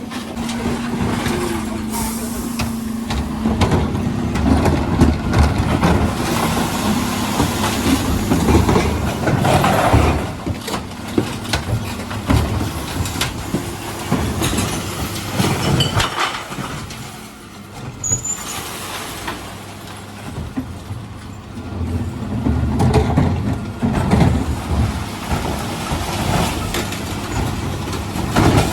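Dennis Elite 6 refuse lorry at work: its diesel engine runs under a busy clatter of knocks and bangs, with air-brake hisses. A steady hum is heard for the first few seconds, and a brief high squeak comes about halfway through.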